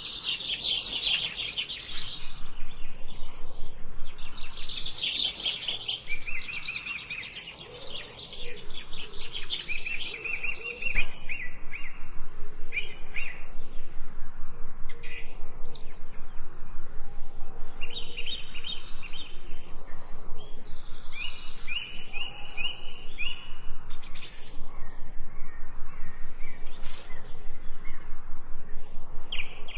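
Several songbirds singing and chirping together, a dense chorus of quick high chirps and trills that thins briefly about a quarter of the way in, then picks up again into rapid, repeated chattering.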